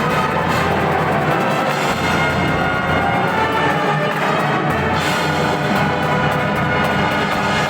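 Marching band playing: brass instruments over drums and percussion, loud and steady.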